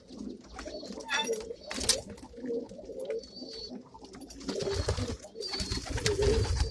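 Domestic pigeons cooing in a loft, several low, wavering coos overlapping one another, with a few scattered clicks and knocks.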